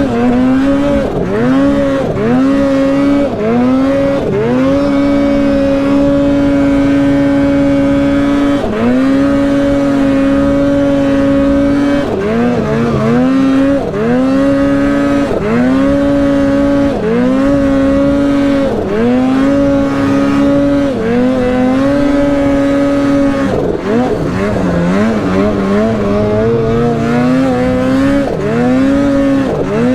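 Polaris Boost turbocharged two-stroke snowmobile engine under hard riding. It holds a high, steady pitch, then drops and climbs back again and again, about once every second or two, as the throttle is chopped and reapplied.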